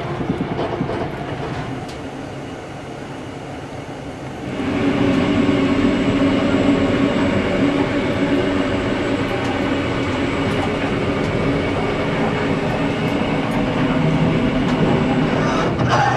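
Steady running noise inside a moving XPT passenger train: the rumble of the carriage on the track. It gets louder and fuller about four and a half seconds in, with a low hum underneath.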